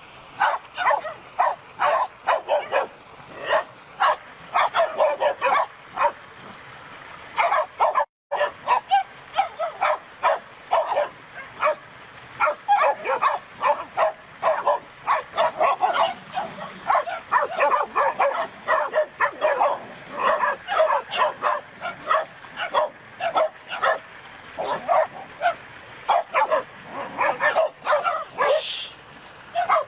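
Several dogs barking and yapping rapidly and without letup, barks overlapping, with a brief total dropout about eight seconds in.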